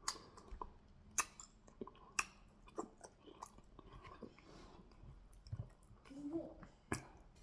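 Close-up chewing of fufu with goat meat in peanut soup: soft wet chewing with sharp, wet mouth smacks and clicks every second or so.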